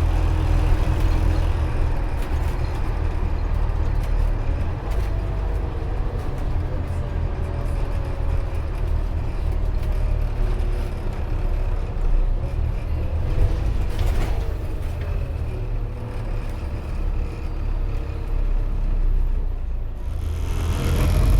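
Scania OmniCity N230UD double-decker bus heard from inside the cabin while driving: a steady low diesel rumble with a faint whine that slowly shifts in pitch, and one sharp knock about two-thirds of the way through.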